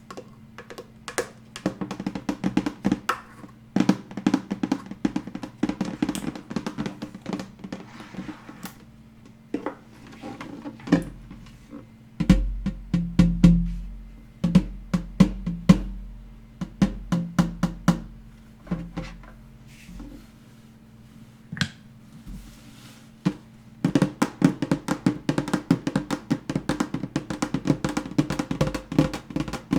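Fast ASMR tapping on hard objects: quick, irregular flurries of sharp taps. Some heavier taps with a low thud come around the middle, and near the end the tapping becomes a dense, continuous patter.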